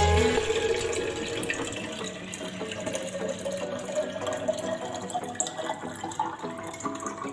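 Water running from a kitchen tap into a container, with a faint tone that rises slowly in pitch as the container fills.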